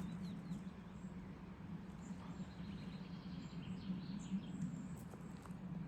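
Faint bird chirps at intervals over a steady low hum.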